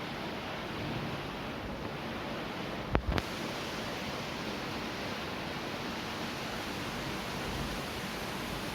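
Steady rain, an even hiss, with a brief knock about three seconds in.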